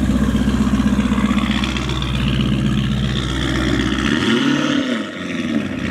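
Lamborghini Urus's twin-turbo V8 running at low revs with a pulsing exhaust note as the SUV pulls away, with a brief rise and fall in pitch about four and a half seconds in.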